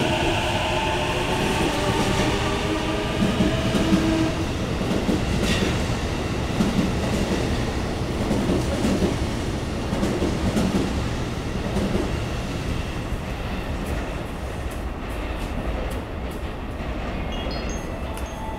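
Chuo Line E233-series electric commuter train pulling out of the station. The traction motors' whine rises slightly in pitch for the first few seconds and fades, then the wheels rumble and clack over the rail joints as the cars pass. The noise dies away gradually as the train leaves.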